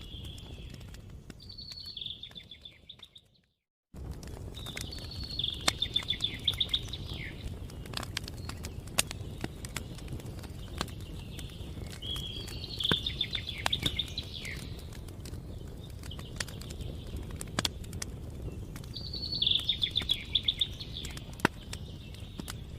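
A songbird singing short trilled phrases, four times about six seconds apart, over a steady low outdoor rumble, with scattered sharp clicks. The sound fades to a brief silence a few seconds in, then resumes abruptly.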